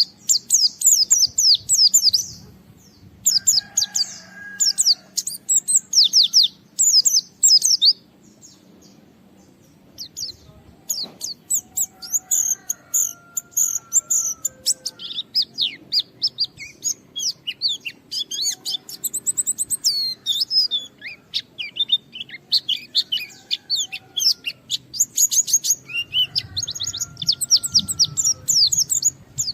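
White-eye (pleci) singing in full voice: rapid, high-pitched chattering trills in dense repeated bursts, with a brief lull about eight seconds in. Fainter, lower whistled notes come in now and then between the trills.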